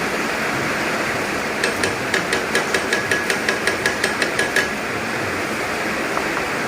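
Quick run of light metal-on-metal taps, about six a second for some three seconds, with a slight ring: a hammer tapping a freshly fitted oil seal home in a Yamaha Mio scooter's engine case, over a steady hiss.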